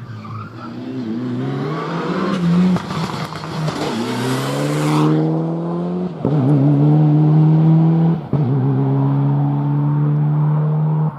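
Four-wheel-drive rally car accelerating hard, its engine pitch climbing and then dropping back with quick upshifts about six, eight and eleven seconds in. In the first half a loud rushing noise rides over the engine and then cuts off abruptly.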